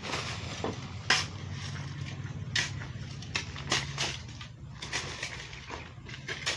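Shovels scraping and knocking through a cement mix, in irregular strokes with a sharp knock about a second in, over a steady low hum.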